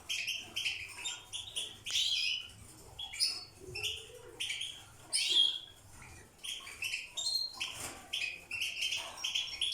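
Several European goldfinches twittering, with quick, overlapping chirps and trills.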